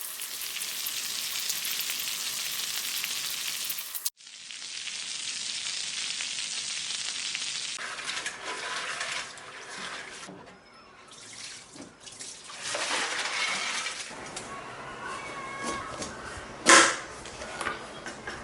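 Kitchen tap running into a sink with things being rinsed, in a few short cut-together clips, then irregular splashing and handling sounds. A single sharp knock stands out near the end.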